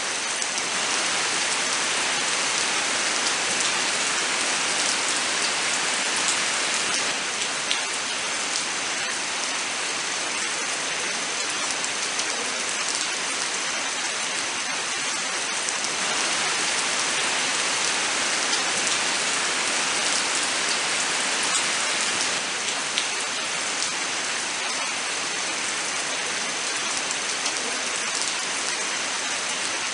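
Steady rain falling, a dense even hiss with many separate drops ticking sharply on top.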